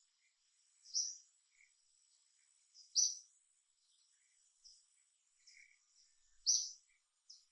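Short high-pitched chirps: three loud ones about two seconds apart, with fainter ones in between, over a faint steady high hiss.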